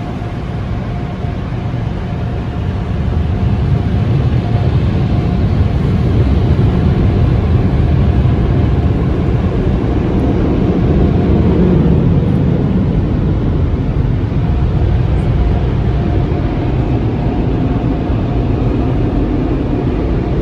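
Automated drive-through car wash running over the car, heard from inside the cabin: a loud, steady rushing noise that builds over the first few seconds and holds.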